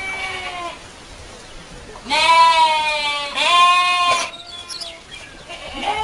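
Goat kids bleating. A call tails off at the start, two loud, wavering bleats follow back to back about two seconds in, a fainter bleat comes after them, and another begins near the end.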